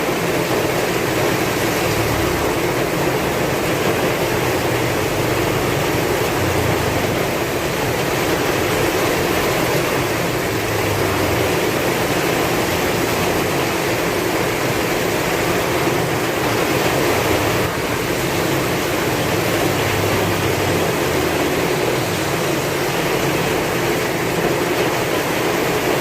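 Heavy rain falling steadily in strong wind, an even downpour with soft low swells now and then.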